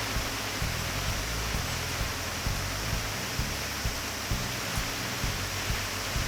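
Steady hiss of heavy typhoon rain, with a soft regular tap or beat about twice a second under it.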